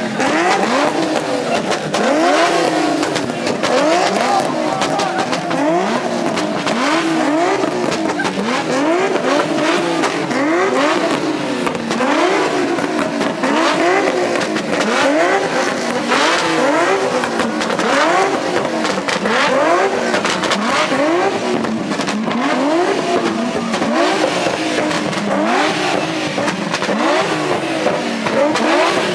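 Car engines revving over and over, each rev rising in pitch and falling back, roughly one a second, with several revs overlapping.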